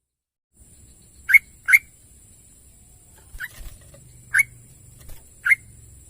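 Sooty-headed bulbul giving short, sharp call notes: a quick pair about a second in, then three single notes about a second apart. A faint steady high whine and low hum sit underneath.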